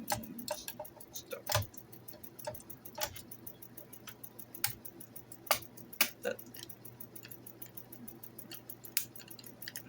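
1965 Record-O-Fone answering machine's mechanism running: a steady hum under rapid faint ticking, with a dozen or so louder, irregular clicks.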